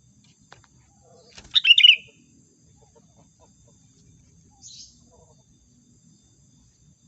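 Sooty-headed bulbul calling: a short, loud burst of chirping notes about one and a half seconds in, then one fainter call near five seconds.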